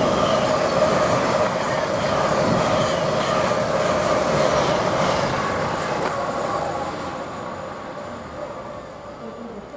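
LNER Class 801 Azuma electric train passing through the station: a loud steady rush with a steady whine, dying away over the last few seconds as it moves off.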